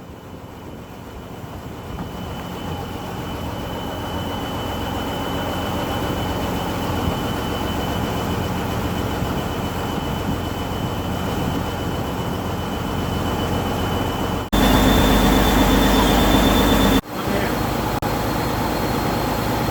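Longtail boat engine running steadily, swelling over the first few seconds, with a thin steady high whine above it. About two-thirds of the way in, a louder stretch of the same drone cuts in and out abruptly for a couple of seconds.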